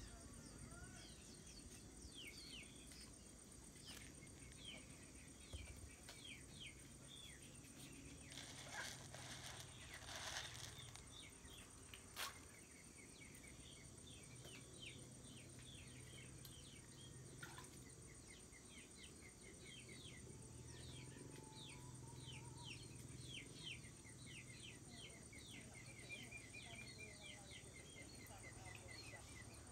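Faint outdoor ambience of small birds chirping, many short falling calls a few times a second, with a rapid trill in the last few seconds. Two brief rustling noises come about nine and ten seconds in.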